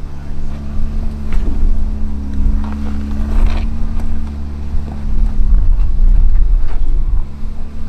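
Off-road Jeep engine running at low, steady revs while crawling over rock, with a few faint knocks.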